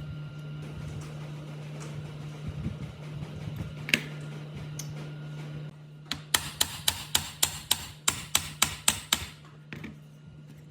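A low steady hum, then a run of about a dozen quick, evenly spaced hammer blows, roughly four a second, in the second half, as in workshop hammering on a pump part being restored.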